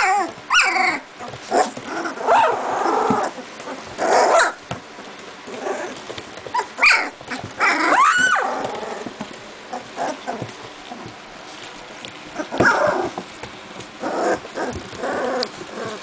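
Very young Doberman puppies, about two and a half weeks old, playing with each other: small growls, squeaky yips and high whimpering cries, short and scattered, some overlapping.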